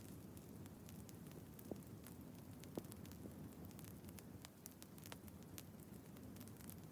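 Wood fire crackling softly: scattered small pops and snaps at irregular intervals over a steady low hiss, with one stronger pop near the middle.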